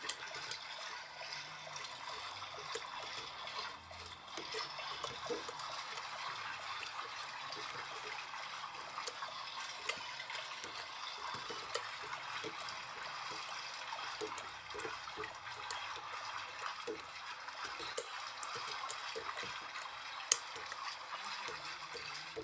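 Water running in an LG washing machine during its rinse cycle: a steady hiss with a few small clicks, cutting off near the end.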